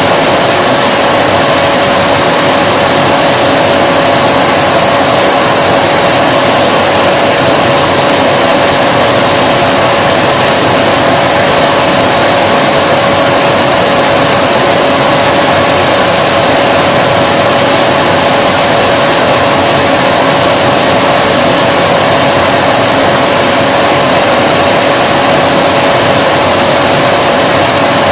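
Vacuum cleaner motor running continuously: a loud, even rushing of air with a steady high hum.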